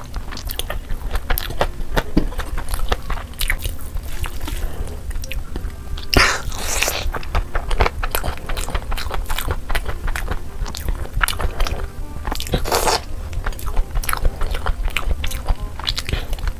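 Close-miked mukbang eating of chicken biryani by hand: wet chewing and lip-smacking with many short sharp mouth clicks. Two longer noisy stretches come about six and thirteen seconds in.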